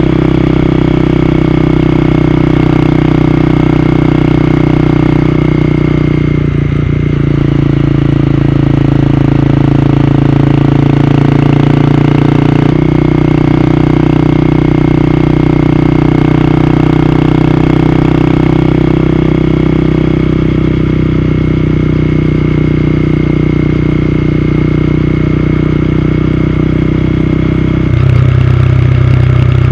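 Honda CB250R's single-cylinder engine running steadily under way, its note shifting a few times, once near the end.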